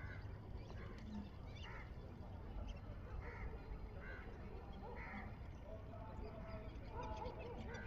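Wild birds calling: short calls repeating about once a second, over a steady low rumble.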